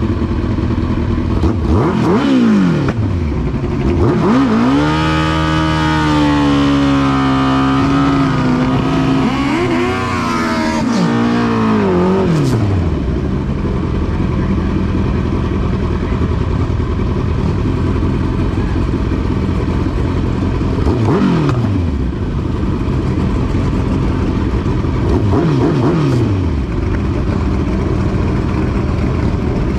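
Drag-racing engines at full noise. About four seconds in, one engine climbs and holds a high, slightly wavering note for some eight seconds before dropping away. Later, three falling engine notes follow one another as machines go by over a steady din of engine noise.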